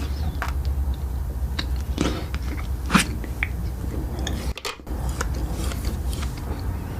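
Close-miked eating: chewing and biting with short crisp crunches, one louder bite about three seconds in, over a steady low hum. The sound briefly cuts out just before the five-second mark.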